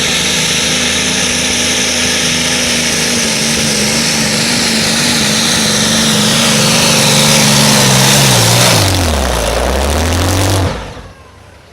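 Modified pulling tractor's engine running hard at a steady pitch under load, then the revs fall steeply near the end, and the sound cuts off suddenly.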